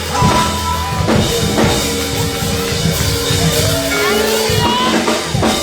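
Gospel band vamping behind a spoken testimony: drum kit and bass drum keeping a beat under held keyboard chords that change about once a second.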